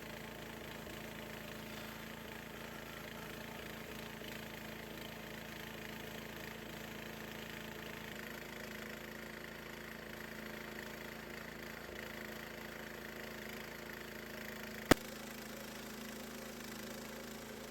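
The gasoline engine of a portable bandsaw sawmill running steadily. A single sharp click about fifteen seconds in.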